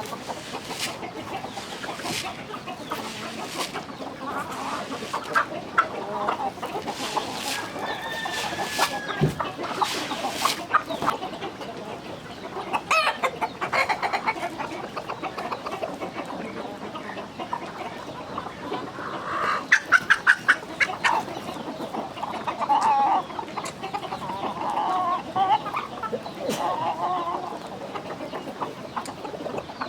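Chickens clucking, with scattered sharp clicks and taps among the calls. About twenty seconds in there is a quick run of taps.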